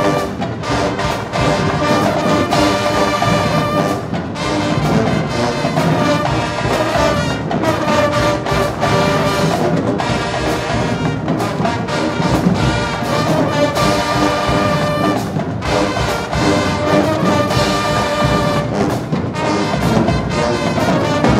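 High school marching band playing loudly: a brass section of trombones and trumpets holding and shifting chords over steady drum beats. The music stops near the end.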